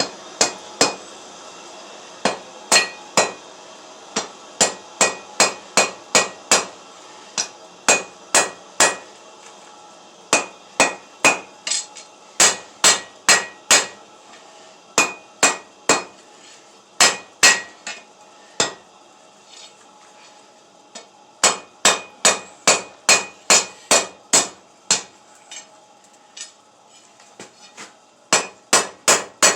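Hand hammer striking hot steel on an anvil while forging a table leg: runs of sharp, ringing blows about two a second, broken by short pauses.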